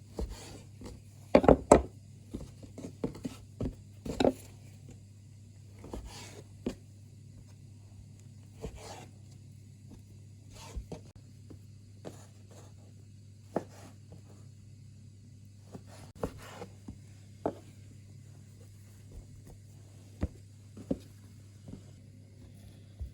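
Scattered light knocks, taps and rubbing from handling work, with a tight cluster of sharper knocks about a second and a half in, over a steady low hum.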